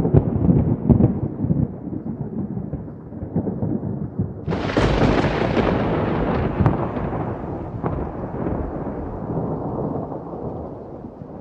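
Thunder rolling and crackling, then a sharper, louder crack of thunder about four and a half seconds in, followed by a long rumble that slowly fades.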